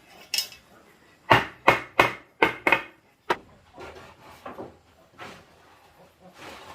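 A run of sharp blows on wood, like a hammer or chopping tool: five loud strikes about three a second, then a single one and several softer knocks.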